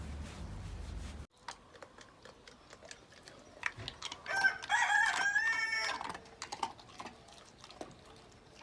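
A rooster crowing once, a drawn-out call of about a second and a half, beginning about four and a half seconds in. Before it, a low steady rumble cuts off suddenly about a second in, followed by faint scattered clicks.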